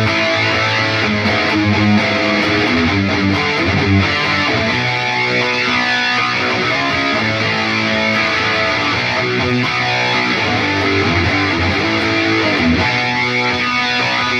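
Electric guitar played through an Atomic AmpliFire modeler pedal and heard through cheap computer speakers: a continuous stream of noodled notes and phrases, steady in level throughout.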